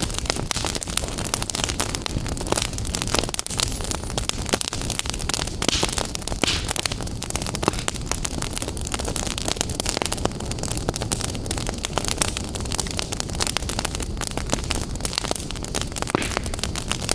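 Wood fire burning in a fireplace: a steady rushing hiss with dense crackles and pops throughout.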